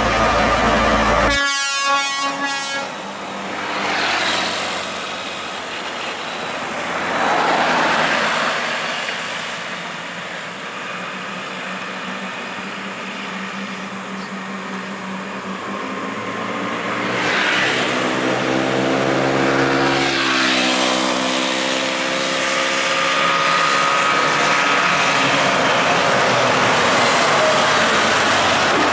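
Heavy trucks passing on a road one after another, with a horn blast about two seconds in. After about twenty seconds a truck engine pulls away with its pitch rising.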